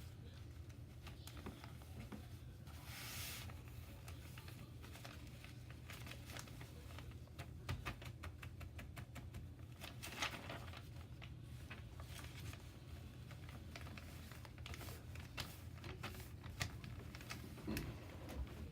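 A sheet of paper being handled and folded by hand: crinkling, rustling and small creasing clicks, with a faint steady low hum underneath.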